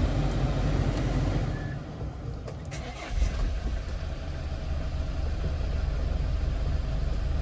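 Hyundai Porter II truck's diesel engine just started: it runs louder for the first second or so, eases off about two seconds in, and settles into a steady idle from about three seconds. The engine is already warm.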